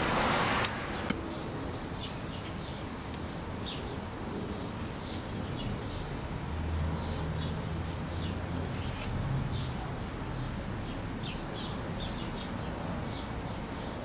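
A sharp click from handling the plastic battery holder and its wiring about half a second in, with a couple of smaller clicks after. Then a bird chirps faintly and repeatedly, a few short high notes a second, over a low rumble in the middle.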